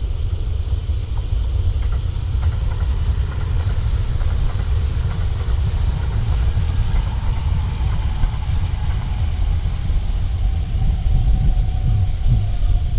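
A Kintetsu electric train running past the level crossing: a steady low rumble, with a faint whine slowly falling in pitch in the second half.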